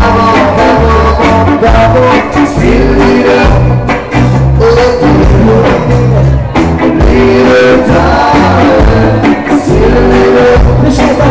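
Live band playing reggae, with a steady bass line and a voice singing over it.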